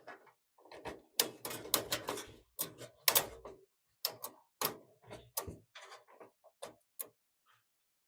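Irregular clicks, knocks and clatter of hard computer parts and a case being handled and fitted together, densest in the first half.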